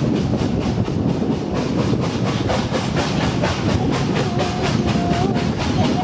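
Heritage train running along the line: a steady rumble with a fast, regular beat. A faint wavering squeal comes in from about four seconds in.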